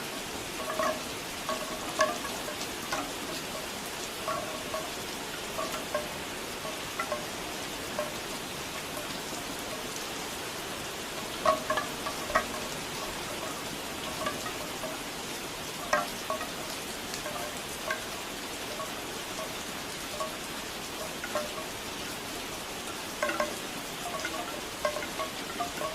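Steady rain hiss with bamboo wind chimes knocking together in irregular clusters of hollow, pitched clonks every few seconds.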